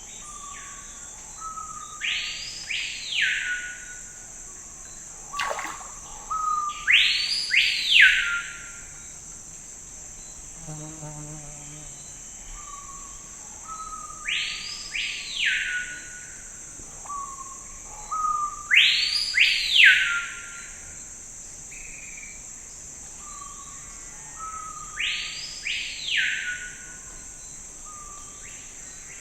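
A songbird singing five phrases of loud, arching sweeping notes, one about every five seconds, with softer short notes between. Behind it runs a steady high insect hum.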